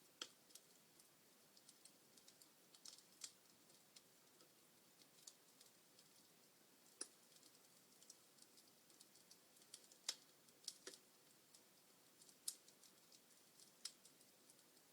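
Wood logs burning in a fireplace, crackling: irregular small pops and snaps over a soft hiss, with a few sharper snaps standing out.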